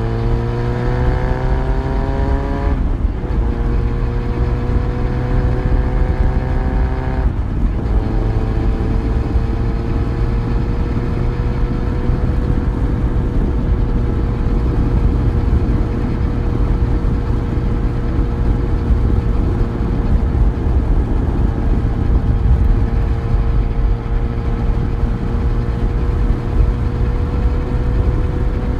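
Yamaha FZ1's inline-four engine accelerating, its pitch rising with two quick upshifts, about three and about seven seconds in, then holding a steady cruising speed. Wind and road noise run underneath.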